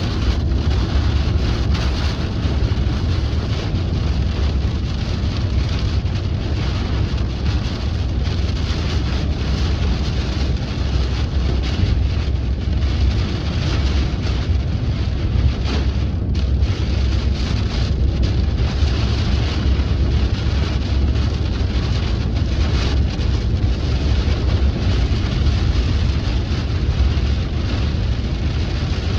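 Rain falling on a moving car, heard inside the cabin over the car's steady low road and engine rumble, with scattered drop hits.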